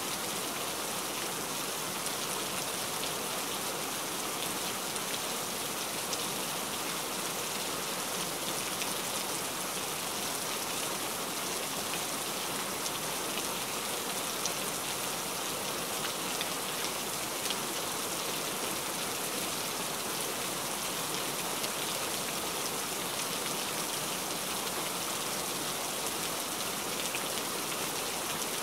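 Steady rain falling: an even hiss with many faint ticks of single drops.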